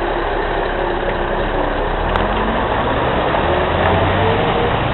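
Scania 164 580 V8 diesel engine running, its note rising gradually from about two seconds in as it pulls. There is a single sharp click a little after two seconds.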